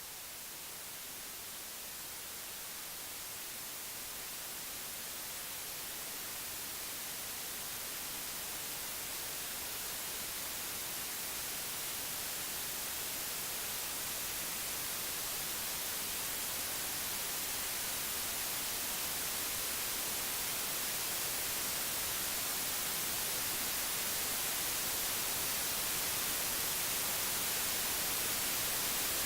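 Steady white-noise hiss, heaviest in the high end, fading in and growing gradually louder throughout.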